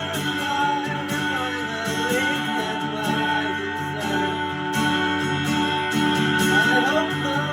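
A live band playing an improvised piece, with guitar over held sustained tones.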